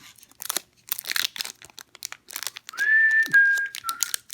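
Foil booster-pack wrapper crinkling and crackling as it is handled and opened. About three seconds in, a short whistle of a few notes, each held then stepping down in pitch, is the loudest sound.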